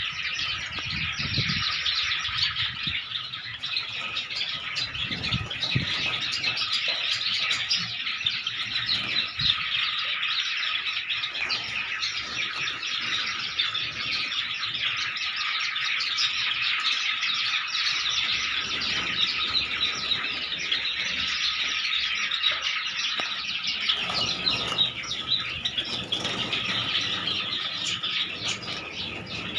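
A flock of Java sparrows chirping without pause, many high calls overlapping.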